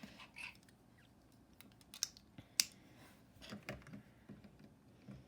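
Plastic Lego pieces clicking and tapping as they are handled and pressed onto a built model. There are a few scattered clicks, and the sharpest comes about two and a half seconds in.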